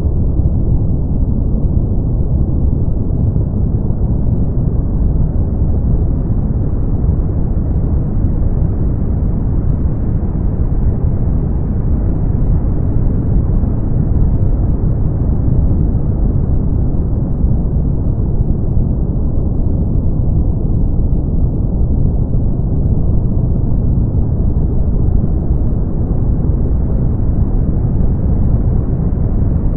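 Steady brown noise: a deep, even rumbling hiss, strongest in the bass and fading out toward the treble, with only a slow, gentle swell in brightness.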